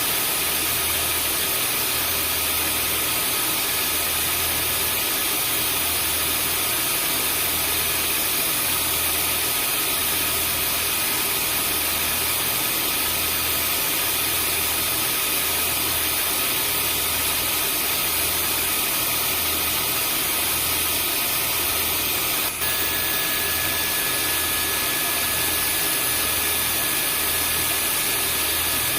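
Vacuum cleaner running steadily: a constant loud rushing hiss with a high motor whine over it and a low hum that pulses about once a second. It is played as white noise to soothe a newborn. A brief dropout comes about two-thirds of the way through, after which an extra whine tone joins in.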